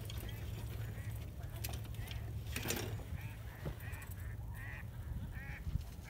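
Birds calling in a series of short, repeated calls, mostly in the second half, over a steady low wind rumble on the microphone.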